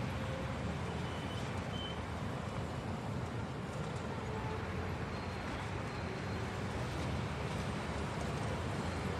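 Steady rushing noise of a bicycle ride: wind on the microphone and tyres rolling on pavement.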